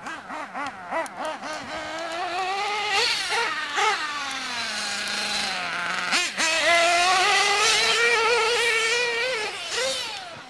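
Small nitro RC car engines running at high revs, their pitch rising and falling with the throttle as the cars race past. About halfway through one engine's pitch sinks low, then it revs back up sharply, and the engines fade near the end.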